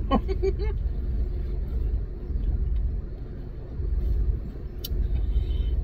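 Steady low rumble inside a parked car with the engine running, with a small click near the end.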